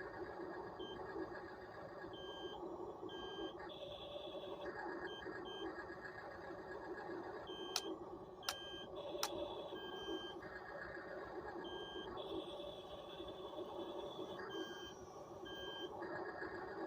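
Radio-controlled toy bulldozer's electric drive motors whirring, with its electronic beeping sound effect switching on and off in short and longer beeps. Three sharp clicks come about halfway through.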